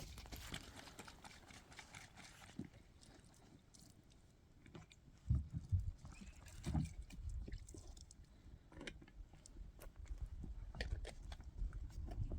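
Scattered, irregular knocks and clicks, with a few louder low thumps about five to seven seconds in.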